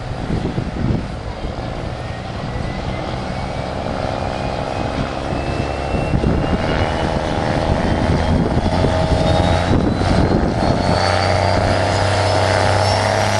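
Diesel pickup truck running under full power, a turbocharger whistle rising slowly and steadily in pitch while the engine grows louder.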